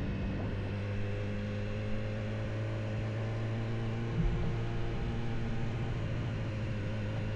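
Car engine running at steady revs, a steady drone heard from inside the cabin, with a short knock about four seconds in.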